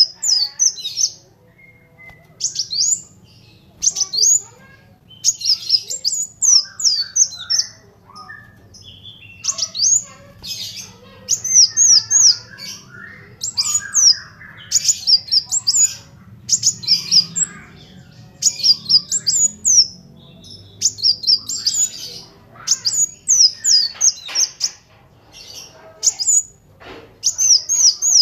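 Kolibri wulung sunbird singing in rapid bursts of high, sharp, quickly sliding chirps, the burst-after-burst 'ngebren' song, with short pauses between phrases. A faint low hum lies underneath.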